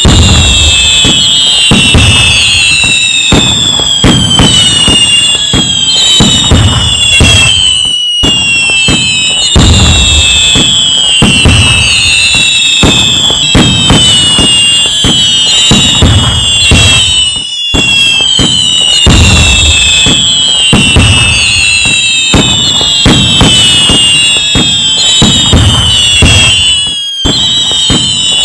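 Loud fireworks: dense booms and crackling bangs under many overlapping whistles that fall in pitch. The same stretch repeats as a loop about every nine and a half seconds, with a brief dropout between repeats.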